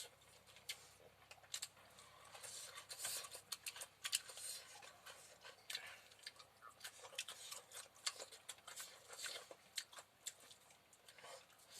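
Someone eating close to the microphone: faint, irregular small clicks and smacks of chewing, with no steady rhythm.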